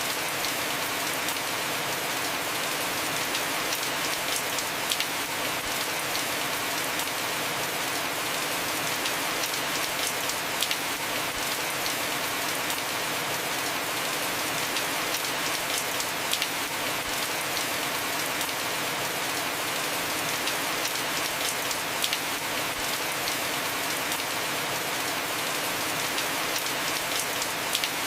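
Heavy, steady rain falling on a roof, with the ticks of individual drops landing close by.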